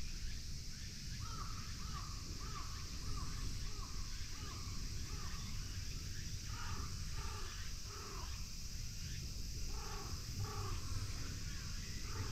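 A bird calling in a run of short, arched notes, nearly two a second, then a slower, lower run of calls, some in pairs, over a steady high hiss.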